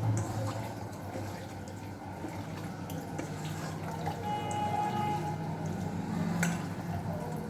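Water trickling and dripping, with a few light clicks.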